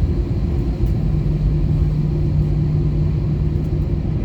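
Airbus A320's CFM56 turbofan engines heard from inside the cabin: a steady low rumble with a held hum, the sound of the airliner at takeoff power.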